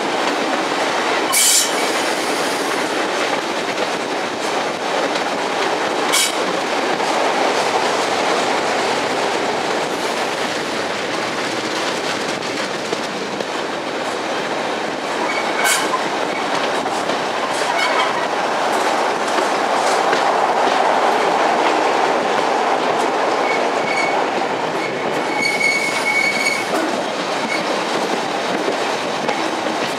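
Diesel train running along the line, heard from an open carriage window: a steady rumble with a few sharp clicks over rail joints. Near the end there is a brief high wheel squeal.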